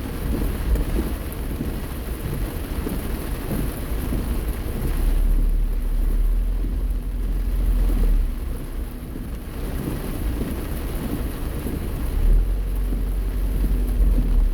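Heavy rain on a moving car, heard from inside, a continuous rushing hiss mixed with tyre and road noise. Two stretches of deeper low rumble come in about five seconds in and again near the end.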